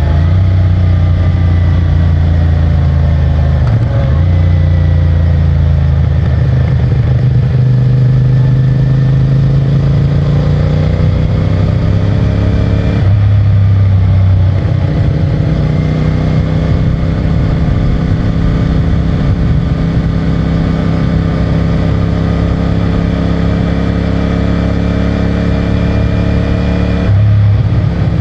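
CFMOTO 450MT's parallel-twin engine running under way through its stock exhaust, the engine note climbing and easing with the throttle. There are short breaks in the note about four seconds in, near the middle and near the end, as for gear changes.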